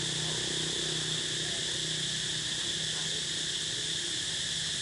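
Steady high-pitched chorus of insects, even throughout, over a low steady hum, with a few faint short chirps.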